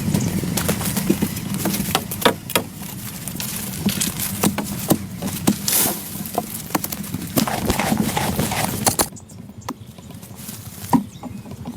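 Irregular hard knocks and clicks, over a steady low hum that cuts off about nine seconds in.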